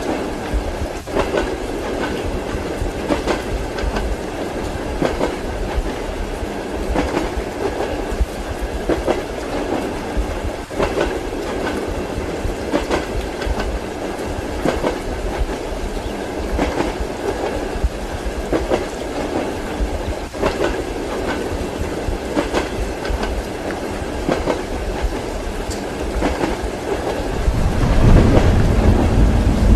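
Railway carriage wheels clacking over rail joints every second or two over a steady running rumble, heard from inside a compartment with rain outside. A deeper, louder rumble swells in near the end.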